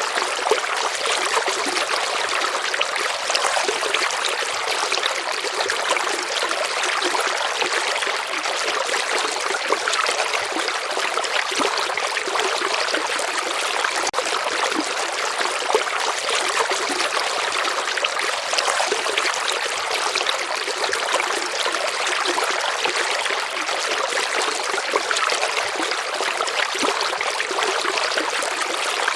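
River water flowing steadily: a continuous, even rush and trickle of moving water, with no deep rumble.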